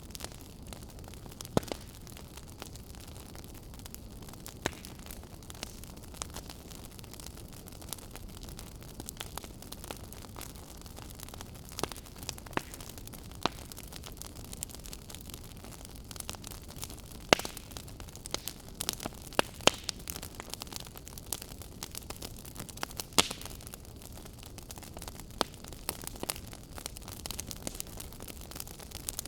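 Fire crackling in a fireplace: a steady soft hiss with irregular sharp crackles and pops, and a few louder snaps scattered through.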